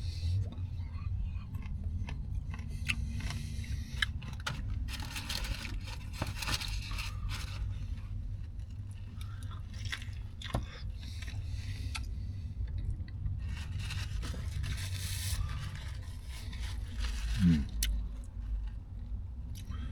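Close-miked chewing and crunching of a turkey, ranch and bacon sub sandwich, with many small wet mouth clicks over a low steady hum.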